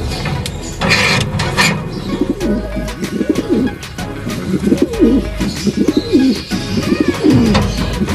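Domestic pigeon cooing repeatedly in low, wavering calls, starting about two seconds in.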